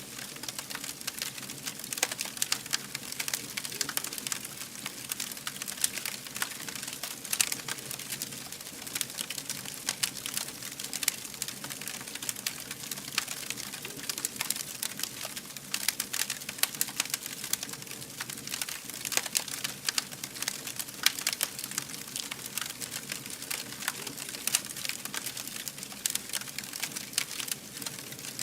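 Wood fire burning, with a dense, irregular crackle of small pops over a steady hiss.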